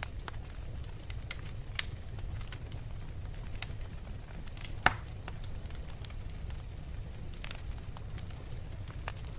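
Wood logs burning in a fireplace: a steady low rumble of the flames with scattered sharp crackles and pops, two of them louder, about two seconds in and near the middle.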